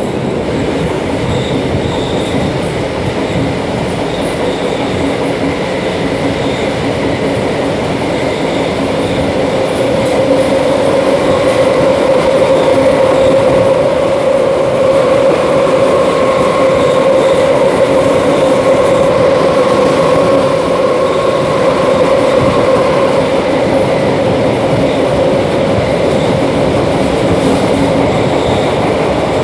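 DB class 472 electric multiple unit heard from inside the car while running: steady rolling and rail noise. A steady tone grows louder about ten seconds in and eases off near the end.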